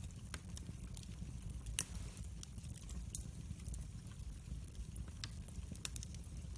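Wood fire crackling: scattered sharp pops and snaps over a low steady rumble, with one louder pop about two seconds in.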